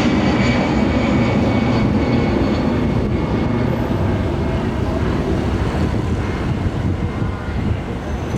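Airliner's jet engines running loud close by: a steady rush with a high whine that gradually fades.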